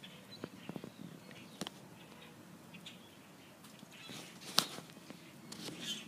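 Birds calling and chirping here and there, faint and scattered, with one sharp click about two-thirds of the way through.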